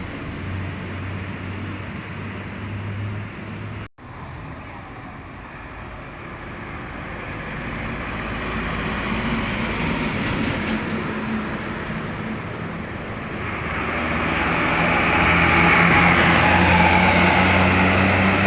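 Road traffic noise with a large bus engine running; after a sudden break about four seconds in, a bus comes closer and gets steadily louder over the last few seconds, its engine note slowly rising.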